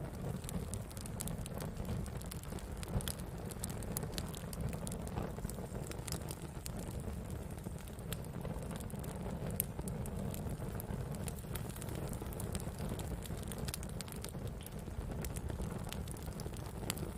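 Wood fire burning, with a steady low rumble of flames and frequent sharp crackles and pops scattered throughout.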